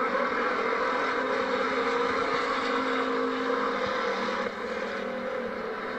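Stock car engines running in a dirt-track race, a steady mechanical drone that eases slightly about four and a half seconds in.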